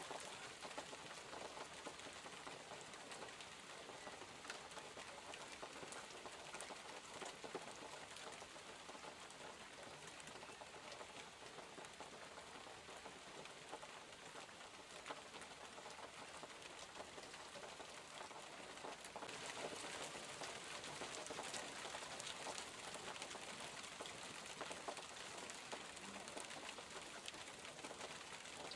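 Steady rain falling, a soft even hiss with scattered individual drops ticking. It grows heavier about two-thirds of the way through.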